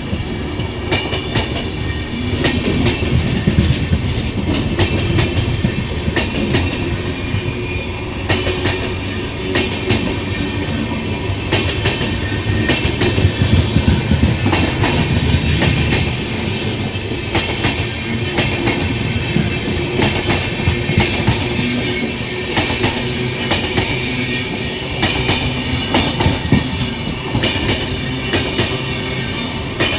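Indian Railways passenger train running on the track: a steady rumble with wheels clattering over the rail joints.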